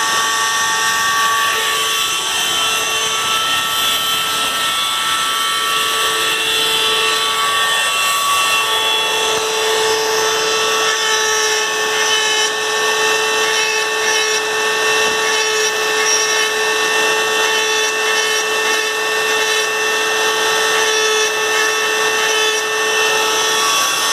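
High-speed rotary engraving tool running with a steady high whine, with small shifts in pitch as it works, cutting anti-theft letters and numbers into a motorcycle part.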